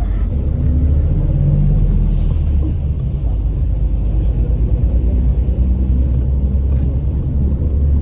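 Low, steady rumble of a moving vehicle.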